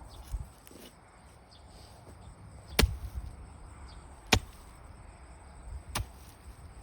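Three sharp knocks about a second and a half apart over a low steady rumble.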